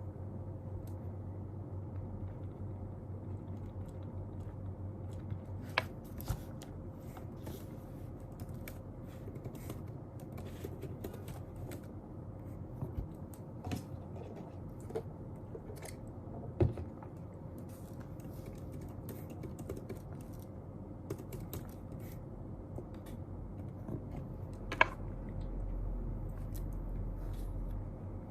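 Small desk-work sounds: scattered light clicks and taps of a keyboard or pen, with a few sharper knocks, over a steady low hum of room noise. The low rumble swells a little near the end.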